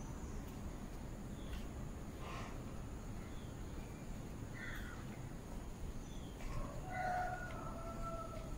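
Faint bird calls over low background noise: a few short calls spread out, then a longer held call near the end.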